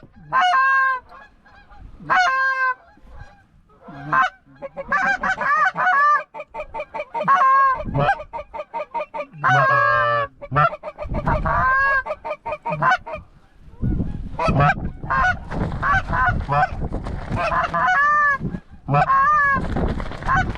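Canada geese honking in a flock, many short calls overlapping and coming thick and fast after the first few seconds, with a low rushing noise underneath in the second half.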